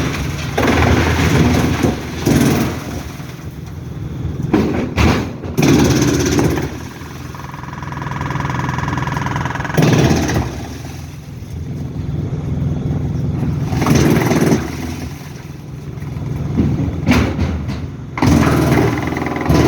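Heavy diesel machinery running steadily, with a loud surge of noise every few seconds and a short whine near the middle.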